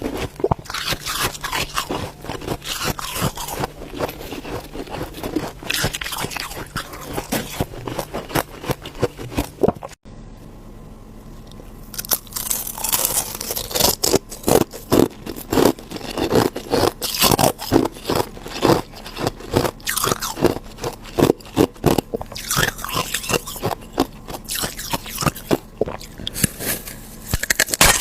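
Ice being bitten and chewed close to the microphone: rapid, dense crunching and scraping. There is a brief quieter lull about a third of the way in, after which the crunching comes back louder.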